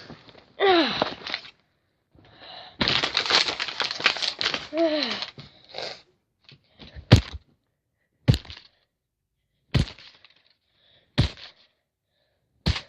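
Five sharp knocks about a second and a half apart, blows smashing a paper troll face. Before them come a few seconds of crackling noise and two short falling vocal cries.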